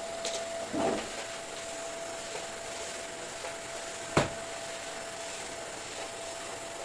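Household cleaning and handling sounds over a steady hiss: a soft thump about a second in and a single sharp knock about four seconds in.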